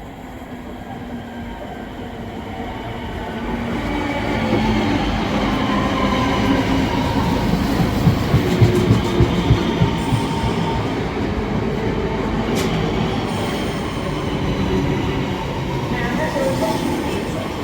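Class 323 electric multiple unit train running on the rails, growing louder over the first few seconds and then holding steady. Midway there is a run of evenly spaced wheel clicks over rail joints, a few a second.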